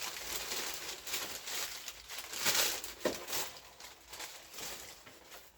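Plastic parts bags crinkling and rustling as they are handled. The rustling is loudest about two and a half seconds in and dies away near the end.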